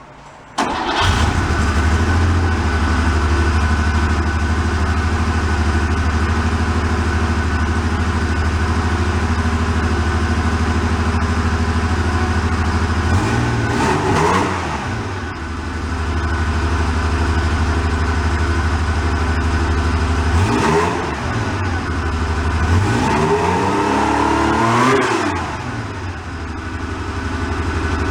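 Air-cooled flat-six engine of a flood-damaged 1975 Porsche 911 starting suddenly about a second in and settling into a steady idle, then revved up and let back down a few times.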